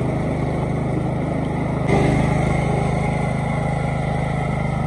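Murray 14.5 horsepower riding mower engine running steadily under way, getting a little louder about two seconds in.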